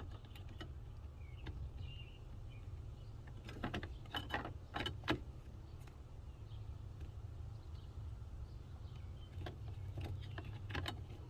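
Scattered small clicks and clatter from plastic wiring connectors and a car door module being handled, with a burst of louder clicks about four to five seconds in, over a steady low hum.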